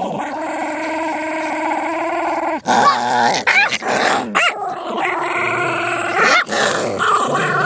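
Pet dogs fighting: steady drawn-out growling, with a few short high yelps about halfway through.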